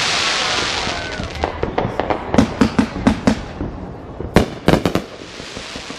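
Fireworks going off. A dense hissing crackle fades over the first second or so, then comes a quick string of sharp pops and bangs, the loudest about four and a half seconds in, and a softer crackling hiss returns near the end.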